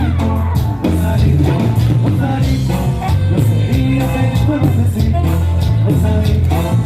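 Norteño band playing a cumbia live, with a heavy bass line under a steady beat.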